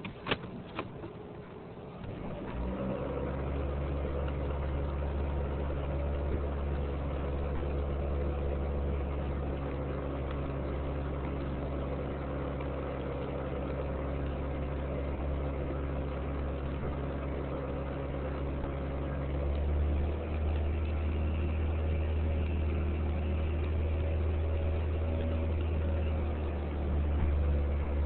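A 1996 Chevy Cavalier's four-cylinder engine: a few clicks, then about two seconds in the engine comes in and idles steadily. Near twenty seconds in its note shifts deeper and heavier.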